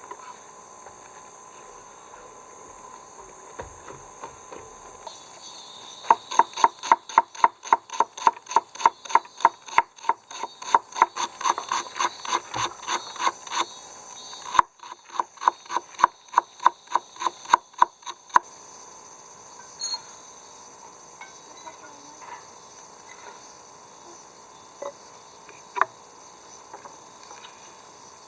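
Rhythmic back-and-forth rasping strokes, about three a second, run for about twelve seconds with a short break partway through, then give way to a few faint scattered clicks.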